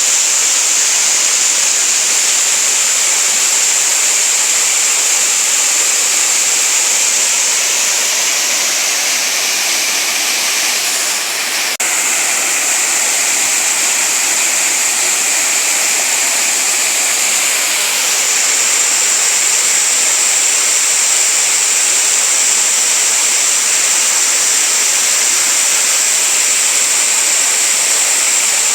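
Waterfall: water falling and rushing steadily into a stream, a continuous even hiss. About eleven seconds in the level dips briefly, with one faint click.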